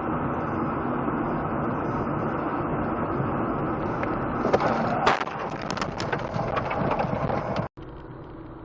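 Car on the road with steady road and engine noise, then a collision about five seconds in: a sharp bang followed by several cracking knocks. Near the end the sound cuts off suddenly to a quieter steady road noise.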